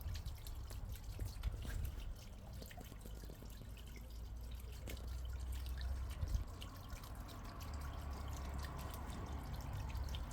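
Water from a pump-fed garden pond feature trickling and dripping into the pond: a steady patter of small drops over a low rumble.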